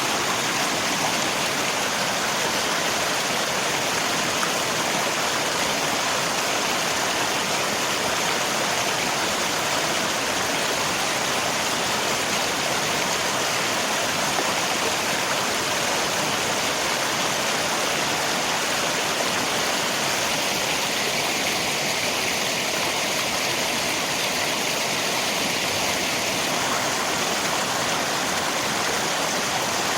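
Rain falling together with a river's flowing water, a steady, even rushing noise.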